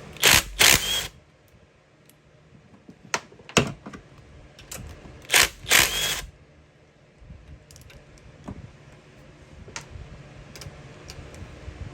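A power tool run in two pairs of short bursts about five seconds apart, loosening cylinder head nuts, with scattered light metallic clicks of tools and fasteners between.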